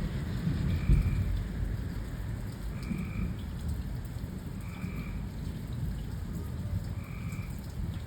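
Steady rain falling with a constant low rumble. A short, high call repeats about every two seconds.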